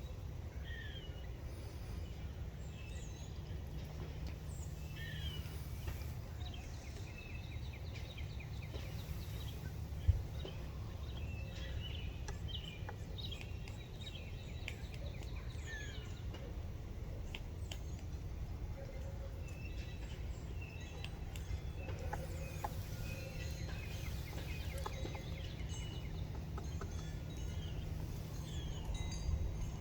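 Birds chirping and calling in short, scattered notes over a steady low outdoor rumble, with occasional sharp taps from the woodpecker pecking at the tree and one louder knock about ten seconds in.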